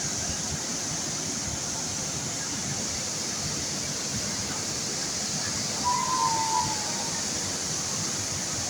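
Steady rush of the El Meco waterfall, falling water heard as an even roar. A brief high tone, falling slightly, sounds about six seconds in.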